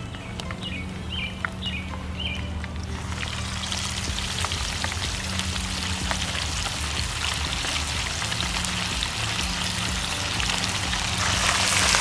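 Fish fillets frying in hot oil in a skillet: a crackling sizzle that builds from about three seconds in and is loudest near the end. A few short high chirps sound in the first seconds.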